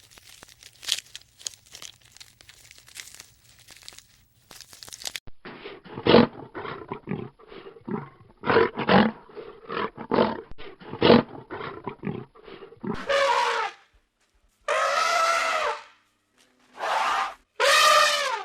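Dense crackling and crunching for several seconds, then a run of separate animal calls near the end, each about a second long and rising and falling in pitch.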